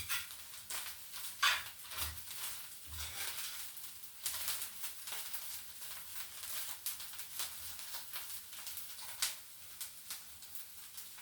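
Omena (small silver fish) frying in a saucepan, sizzling steadily, with irregular scrapes of a spoon stirring them.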